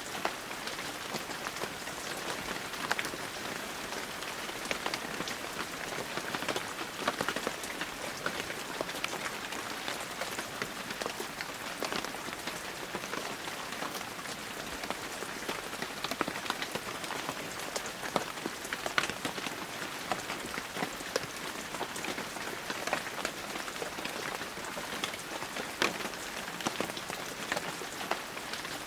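Heavy rain falling steadily, a dense hiss with many individual drops pattering close by.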